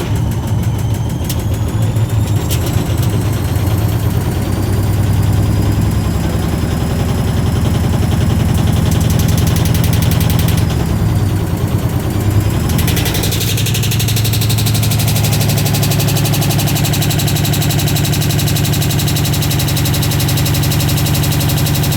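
Washing machine running with a stone inside the drum: a steady low rumble and rapid knocking, with a motor whine shifting in pitch over the first few seconds. About thirteen seconds in, the sound becomes denser and brighter, as at a higher drum speed.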